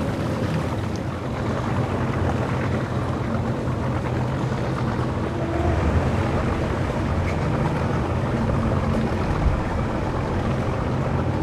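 Boat engine running with a steady low hum, mixed with wind on the microphone and water noise, swelling slightly midway, with a brief thump a little before the end.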